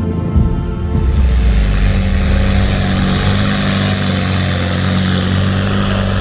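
Music gives way about a second in to a pulling tractor's heavy engine running loud and steady, with a broad rushing hiss over it.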